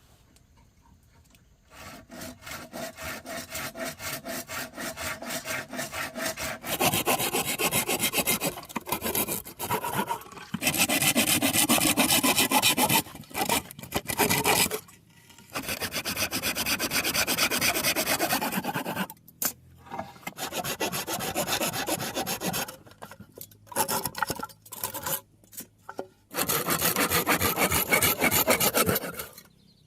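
Saw cutting through wood in several bouts of quick back-and-forth strokes, with short pauses between them.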